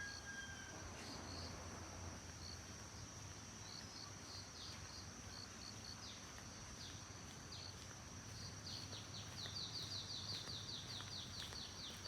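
Insects and small birds outdoors: a steady high-pitched insect drone, with short chirps repeating on and off. About nine seconds in, a fast run of chirps takes over briefly.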